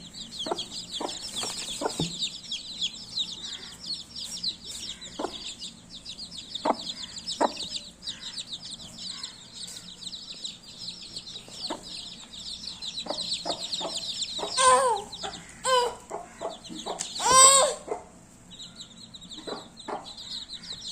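Baby chicks peeping continuously in a dense, high chatter, with lower clucks scattered through. Three louder, longer calls come about two-thirds of the way through, and the peeping breaks off briefly just after them.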